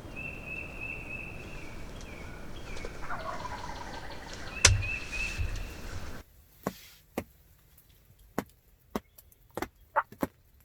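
A small bird chirping over and over, with a faint wild turkey gobble about three seconds in and a sharp knock near the middle. The sound then cuts out to near silence, broken by a handful of scattered clicks.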